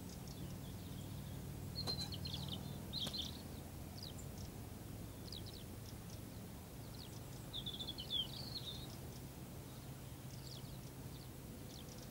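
Small birds chirping with short, high calls every second or so, loudest about two, three and eight seconds in, over a low steady hum.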